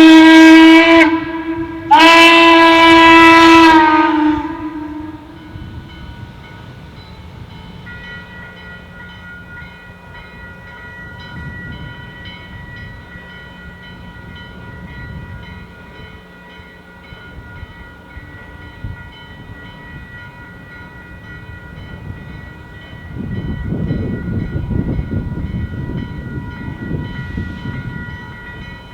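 A steam locomotive's chime whistle sounding two blasts, a short one ending about a second in and a longer one after it. Then the train runs on with a low rumble that grows louder about three-quarters of the way through.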